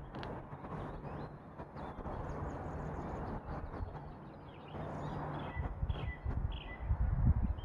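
Small birds chirping and twittering, short high calls scattered throughout, over a steady low background rumble. Louder low gusty surges swell up in the last few seconds.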